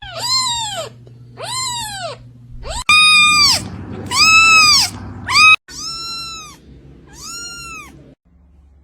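A cat meowing about seven times in a row, each meow rising then falling in pitch, a couple of them short. The sound cuts off abruptly between some of the meows.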